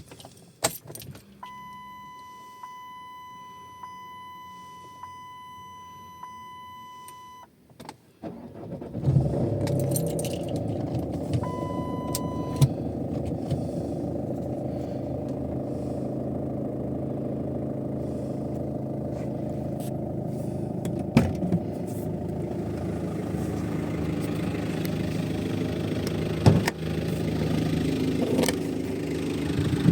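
Keys jangle and a steady electronic chime sounds for about six seconds. Then the Chrysler Sebring's Volkswagen-built 2.0 TDI four-cylinder diesel cranks and starts about eight seconds in, settling into a steady idle. A short chime sounds again soon after it catches.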